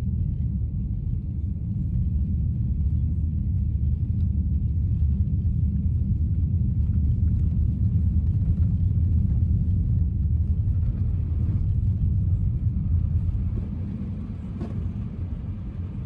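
Steady low rumble of tyre and road noise inside a moving car's cabin on a rough, bumpy road surface. It eases somewhat near the end.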